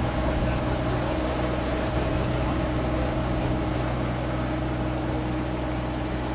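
Steady mechanical hum of a running machine, holding a constant low drone with a few fixed tones and no change in speed.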